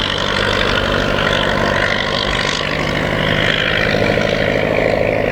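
De Havilland DH.51 biplane's V8 engine and propeller running steadily, a constant drone.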